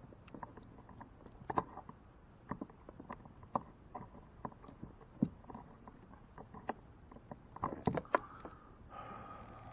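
Scattered light clicks and knocks of fishing rods, reel and line being handled in a kayak while untangling a hooked fish, with a cluster of sharper knocks about eight seconds in.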